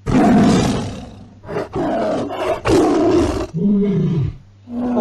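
Tiger roar sound effect: a loud roar at the start, followed by two more rough roars and then two shorter growls that fall in pitch near the end.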